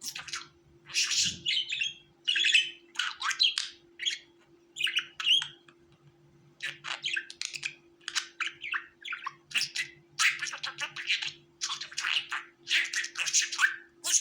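Budgerigars chirping and chattering in a quick run of short, high warbling calls, with a brief lull about six seconds in.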